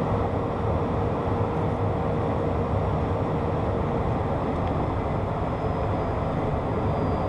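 Steady cockpit noise of a Beechcraft Premier 1 business jet on final approach: the even rush of its twin turbofan engines and the airflow. A faint steady tone fades out about four seconds in.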